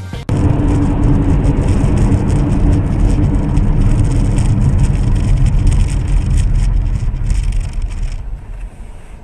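Loud, steady rumble of a moving vehicle, engine and road noise, that falls away to a quieter level about eight seconds in.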